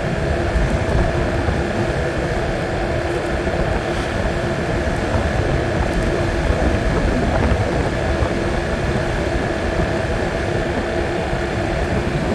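Yamaha Morphous 250 cc single-cylinder scooter engine running at a steady cruising speed while riding, with a constant low rumble of wind and road noise. It runs evenly with no odd noises, freshly oil-changed.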